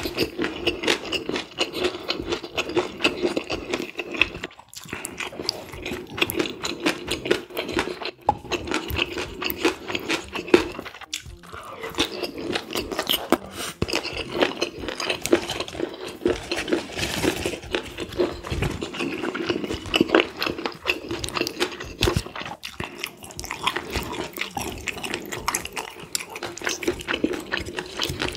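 Close-miked chewing of a mouthful of food: a dense run of wet mouth smacks and clicks with some crunching, going on without a break.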